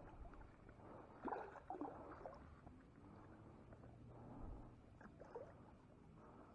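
Near silence broken by faint scuffs and light knocks: a cluster about a second in and a few more around five seconds in.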